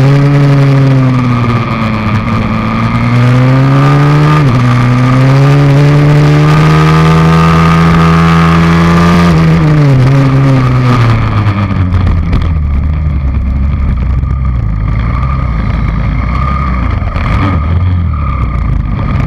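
The YX160 single-cylinder four-stroke engine of a pit bike, heard on board under way. The revs dip, climb, then jump down and rise again about four seconds in, and climb steadily until they fall away about nine seconds in. After that the engine settles to a lower, rougher running.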